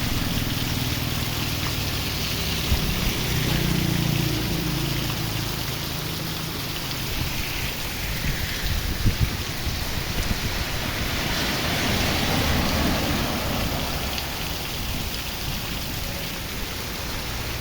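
Steady rain falling, a continuous even hiss of drops with a few light knocks of drops hitting surfaces.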